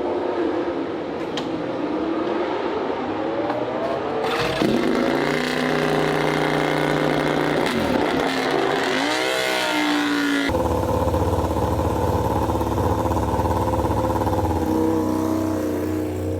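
MotoGP racing motorcycle engines running and being revved, the pitch rising and falling. The sound changes abruptly twice, about four and ten seconds in, and settles into a steadier, deeper run in the last part.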